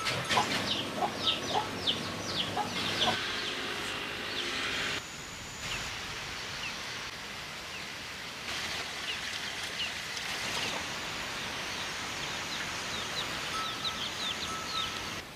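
Birds chirping in quick, short, high calls over a steady outdoor background hiss, busiest in the first few seconds and again in the second half. The background changes abruptly twice in the middle.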